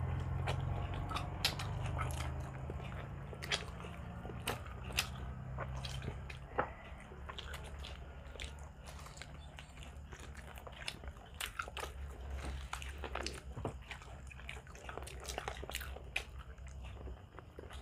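People chewing and biting grilled barbecue meat close to a clip-on microphone, with many short, sharp wet clicks and smacks of mouths at irregular intervals.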